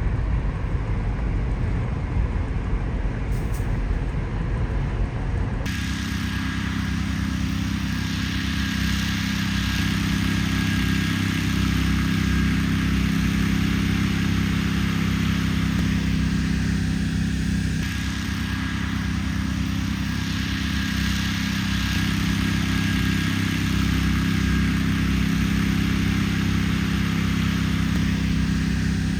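Steady car engine and road noise from a moving vehicle, a constant low hum with an even hiss above it. The sound changes abruptly about six seconds in, from a looser low rumble to this steadier hum.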